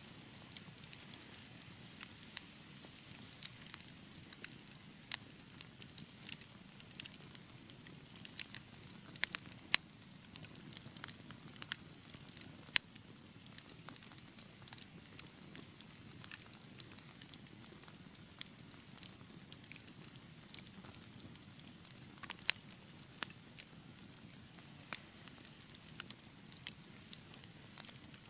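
Fire in a fireplace crackling: a soft low rush of flame with irregular small snaps throughout, and a few sharper, louder pops.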